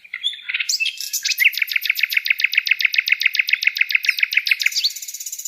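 Wild birdsong: a few scattered chirps, then a fast trill of evenly repeated high notes, about eight a second, lasting about three and a half seconds before easing into thinner calls near the end.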